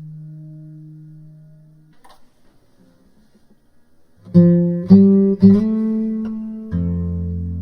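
Background music on guitar: a held note fading out, a pause, then three plucked notes in quick succession about half a second apart, ringing on into sustained chords.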